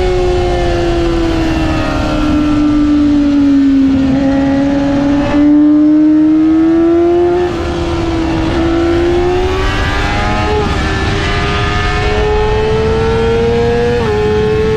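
Yamaha R6 inline-four engine running hard on track. Its pitch sags for the first few seconds, then climbs steadily with a couple of small steps, heard over heavy wind rush.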